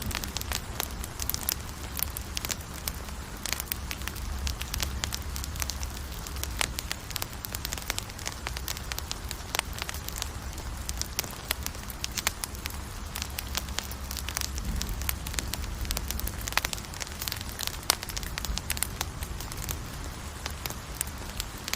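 Campfire crackling: many irregular sharp pops and snaps over a steady hiss of burning wood, with a low rumble underneath.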